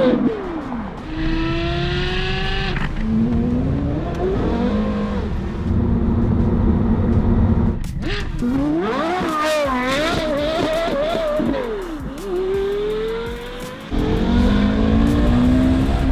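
Porsche Carrera GT's V10 through a Kreissieg cat-back valved exhaust with an X-pipe, revved hard with its pitch climbing, falling and wavering as the car is driven and drifted. The sound jumps abruptly several times where separate runs are cut together.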